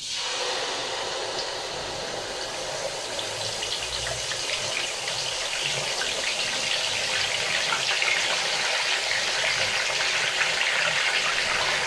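Whole marinated chicken frying in hot oil in a deep pan: a dense, crackling sizzle that starts suddenly as the chicken goes in and grows slightly louder.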